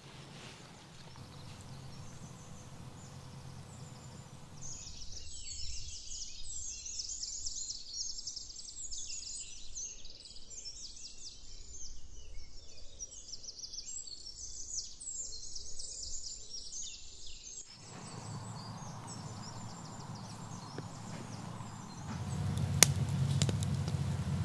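Forest ambience with small birds chirping rapidly and continuously through the middle of the stretch. There is a faint low hum before and after, and one sharp click near the end.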